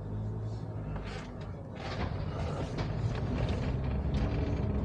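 Suzuki Solio driving up a multi-storey car park: a steady low rumble of engine and tyres that grows louder, with scattered short creaks and clicks.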